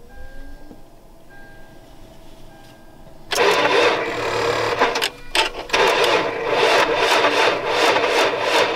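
A Toyota engine being started in below-zero cold: a loud starting sound comes in suddenly about three seconds in and keeps going, with a couple of brief drops soon after.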